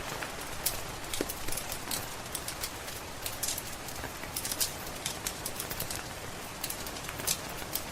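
Steady rain hiss mixed with a crackling wood fire: frequent sharp, irregular pops and snaps over the rain.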